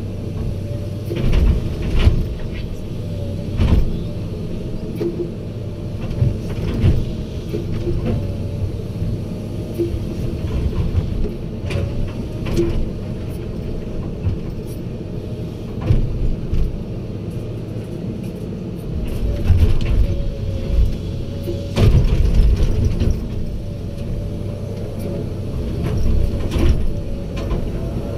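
Diesel engine of heavy earthmoving machinery running steadily, with irregular knocks and clanks every few seconds.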